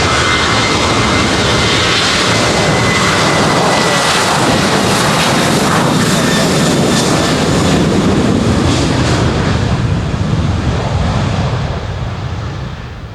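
Boeing 737-800's CFM56 jet engines running at high power as the airliner departs: a loud, steady jet noise with a thin whine in the first few seconds, fading away over the last two seconds.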